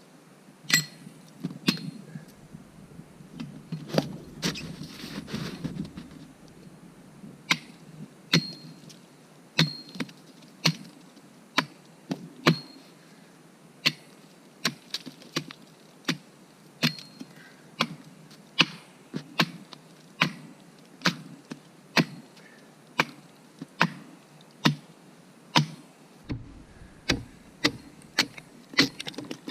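Axe chopping into the wood of a fallen tree, hewing it flat for a log-stove fire: a steady series of sharp blows about once a second, some with a short metallic ring, coming faster near the end.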